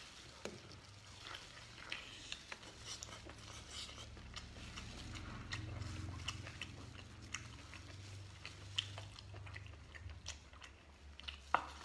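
Faint close chewing and small wet clicks of a man eating a whole cooked squid, pulling at it with plastic-gloved hands, over a low steady hum.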